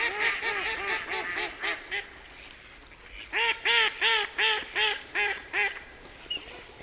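A duck quacking in two runs of short, nasal quacks: a quick run of about four or five a second over the first two seconds, then after a pause of over a second a second run of about seven quacks that slows near its end.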